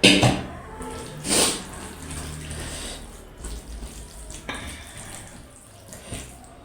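Wet, squelching sounds of food being mixed and eaten, with a sharp burst at the start and another about a second and a half in, then softer smacking noises.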